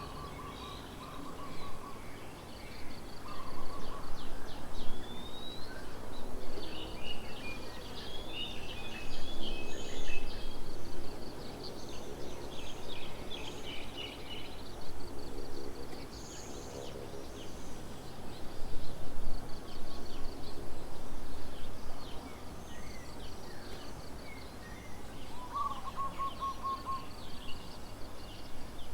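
Several wild birds calling at once: short chirps, trills and whistled notes over a steady low background hum, with a lower rapid call at the start and again near the end.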